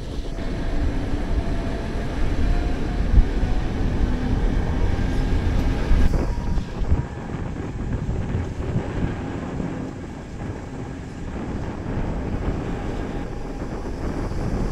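Electric Gornergrat rack-railway train running downhill: a steady low rumble of the running gear with a faint steady hum, mixed with wind buffeting a microphone mounted on the outside of the car.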